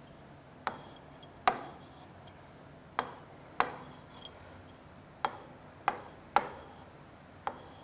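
About nine sharp, irregularly spaced taps of a writing implement striking a writing surface while a problem is worked out, each with a short ring.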